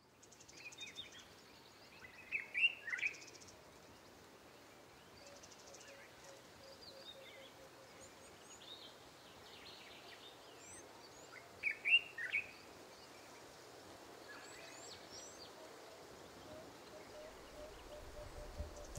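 Birds chirping over a faint outdoor background hiss, with two louder bursts of chirps, a couple of seconds in and again about two-thirds of the way through, and fainter high trills between.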